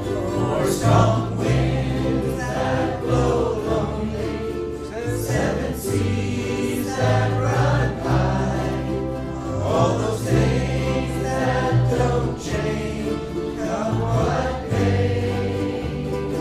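A large group of voices singing a folk song in unison to strummed ukuleles.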